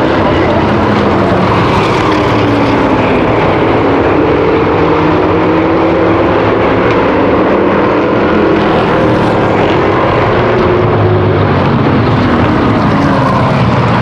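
Several V8 stock car and truck race engines running together on an oval, their pitch rising and falling as they accelerate, lift and pass.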